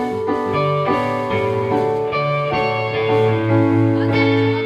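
A live band playing a song's instrumental intro, with keyboard chords over guitar and a steady bass line.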